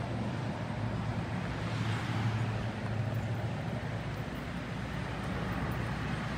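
Steady low hum of a running vehicle over outdoor background noise, easing off somewhat about halfway through.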